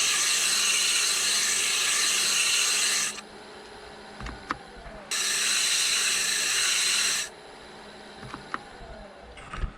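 120-grit sandpaper pressed against poplar spinning on a wood lathe, giving a steady hiss that stops for about two seconds after three seconds, then runs again for about two seconds. In the gaps the lathe hums quietly, with a few light clicks.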